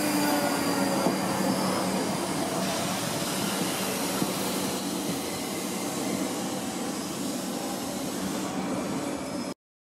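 South West Trains electric multiple-unit train running past along the rails and away, a steady rumble of wheels on track that slowly gets quieter. It cuts off suddenly near the end.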